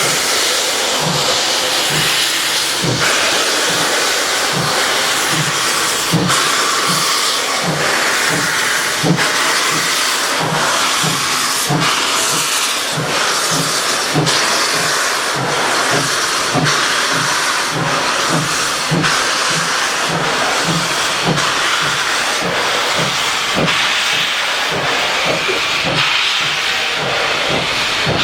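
D&SNG K-37 steam locomotive #493 hissing steam, with a steady low beat of about three pulses every two seconds.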